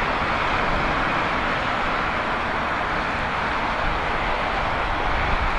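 Boeing 777-300ER's GE90 jet engines on approach to land, a steady rushing jet noise with no distinct whine or change in level.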